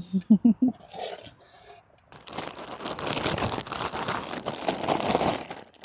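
Plastic bag of taco salad being shaken and squeezed to mix it, a dense crinkling and rustling that starts about two seconds in. A short bit of voice comes just before it.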